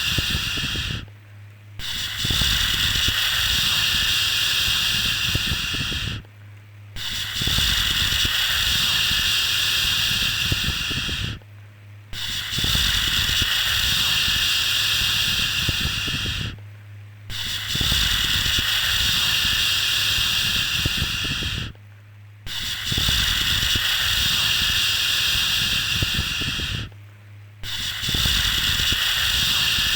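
A long shushing 'shhh' used to soothe a baby, each one lasting about four and a half seconds with a short break before the next, repeating evenly. A faint steady low hum runs underneath.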